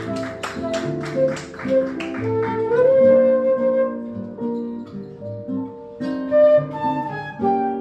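Instrumental break in a jazz ballad: a flute plays the melody over strummed acoustic guitar chords.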